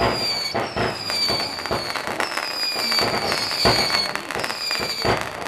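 Firework battery firing shot after shot, each shot whistling on its way up. About five high whistles sound, each falling slightly in pitch, over a steady run of sharp cracks and bangs.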